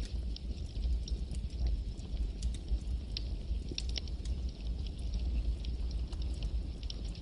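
Campfire crackling: a steady low rumble of flames with many small, irregular crackles and pops, several a second.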